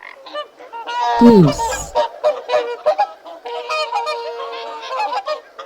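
A flock of geese honking: many short, overlapping honks, with a few longer held calls after about three and a half seconds.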